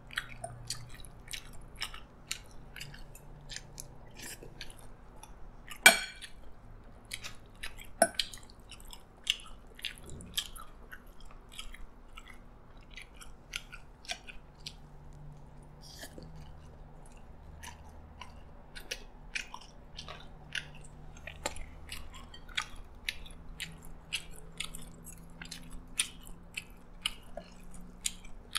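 Close-up chewing and mouth sounds of a person eating spoonfuls of rice mixed with sambal and curry, full of small wet clicks. A sharp clink of a spoon or fork against a plate comes about six seconds in, and a softer one about two seconds later.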